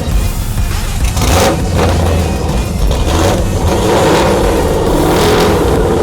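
A car engine running loud and revving.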